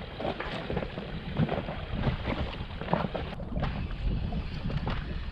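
Wind buffeting the microphone and water lapping against a small boat, with irregular light knocks and splashes.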